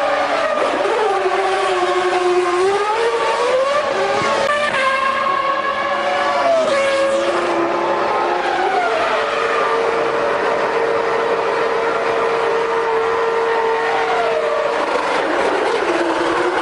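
Formula One cars' V10 engines revving in the pit lane, several engine notes rising and falling over one another. About halfway through, one engine holds a steady pitch for around six seconds, then drops away.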